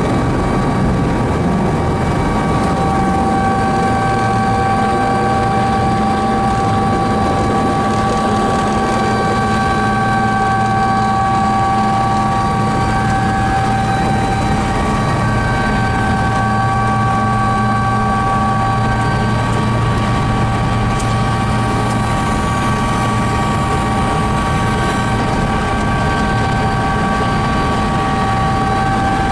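Helicopter turbine and rotor running steadily, heard from aboard: loud, even noise with a constant whine over a low drone.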